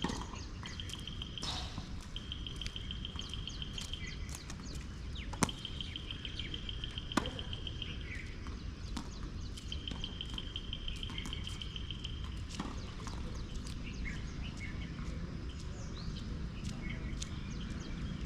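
A bird repeating a high, evenly pulsed trill four times, each trill lasting one to two seconds, over a steady low rumble. Two sharp knocks about two seconds apart sound in the middle: a tennis ball being struck.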